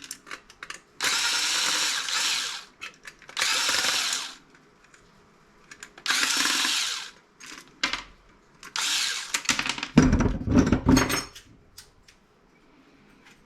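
Power drill-driver spinning out screws in four short runs of about a second each, its motor whining high. Near the end comes a brief burst of knocking and rattling.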